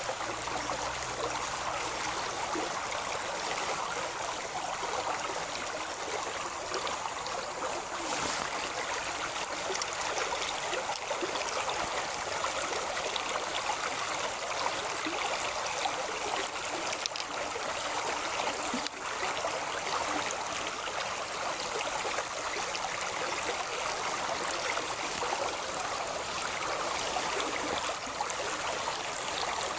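Flowing water running steadily, an even continuous rush with no change in level.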